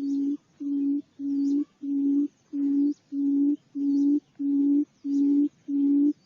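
Barred buttonquail's low booming call: an even series of deep hoots, about three every two seconds, played as a lure call for trapping the birds.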